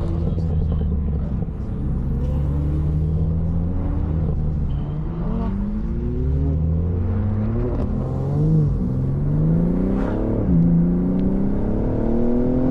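Car engine under acceleration: a steady drone at first, then about five seconds in its pitch climbs as it revs up. About ten seconds in it drops sharply at a gear change, then climbs again.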